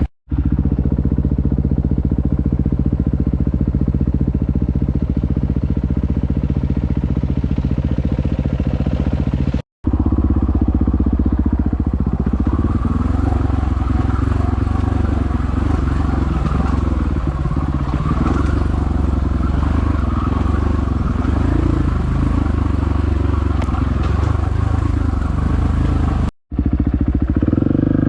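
Dirt bike engine running under load on a trail, revving up and down. The sound cuts out briefly twice, about 10 and 26 seconds in.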